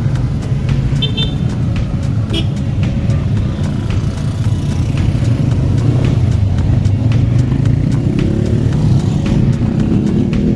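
Motorcycle engines running, a steady low rumble whose pitch rises and falls now and then.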